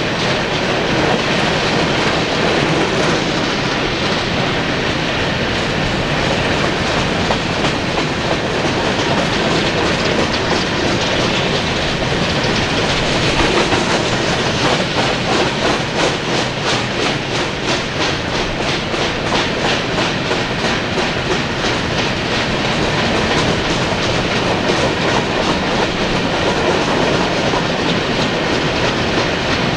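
Coal cars of a Union Pacific coal train rolling past, steel wheels clicking steadily over the rail joints, with a stretch of clear rhythmic clickety-clack in the middle.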